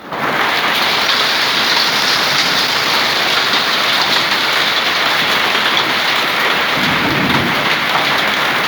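Heavy hail and rain pelting down in a loud, steady, dense hiss, with a brief low rumble about seven seconds in.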